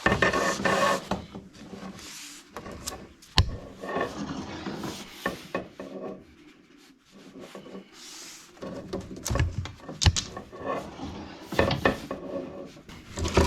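Chimney sweep's brush scraping against the inside of the chimney flue as it is worked up and down on the rods, in irregular spells with a few sharp knocks and a quieter stretch midway.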